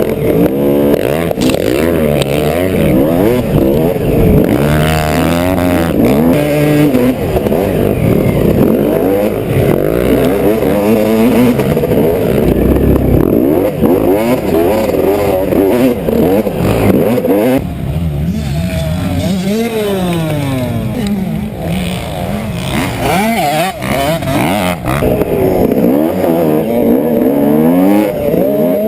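Dirt bike engine revving up and dropping back again and again as the throttle is opened and shut while riding a motocross track. The frequent throttle chops are ones the rider himself admits he needs to work on.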